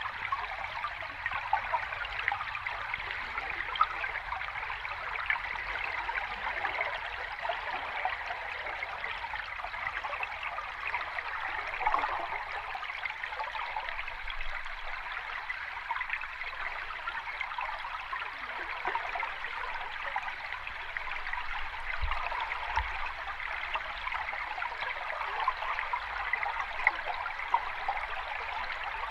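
Water of a small cascade or stream running steadily, a light splashing babble with small irregular splashes throughout rather than a deep roar.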